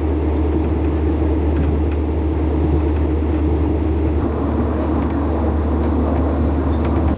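Steady low rumble of a moving vehicle running at constant speed, cut off suddenly at the end.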